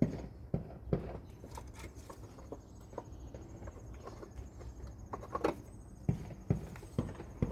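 Irregular light knocks and clicks from handling parts and moving about, with a few sharper knocks about a second in and again in the last two seconds.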